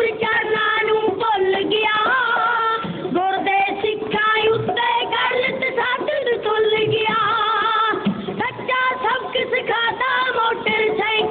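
Punjabi dhadi folk singing: a high, wavering voice sings a melody over a steady held instrumental note, with no break in the music.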